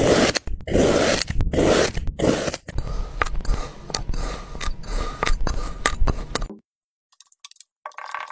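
Slime being worked by hand: squishy presses about once a second, then a stretch of fine crackling and small pops that cuts off suddenly about six and a half seconds in.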